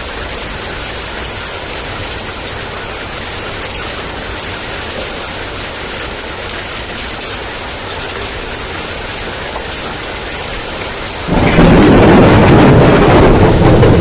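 Steady heavy rain, then about eleven seconds in a sudden, much louder clap of thunder breaks in and rumbles on over the downpour.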